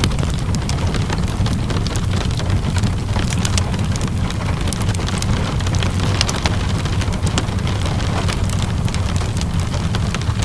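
Steady rainfall and a crackling wood fire heard together: an even rain hiss with a deep constant rumble beneath, dotted with frequent small sharp crackles and pops.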